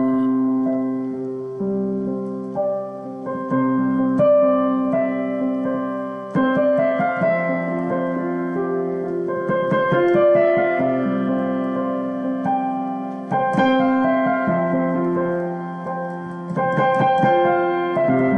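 Solo piano playing slow, sustained chords that change every second or two, recorded on a mobile phone.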